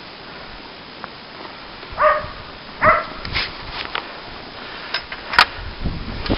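A dog barking twice, short calls about a second apart, over a steady hiss. A sharp click follows a few seconds later.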